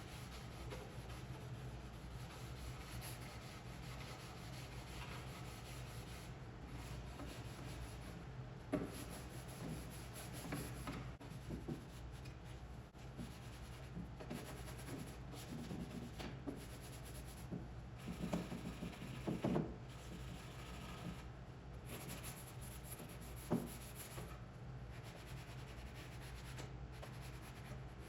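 Rubbing on a wooden drawer surface by hand, as when working conditioner into the wood, with a few light knocks of wood on wood.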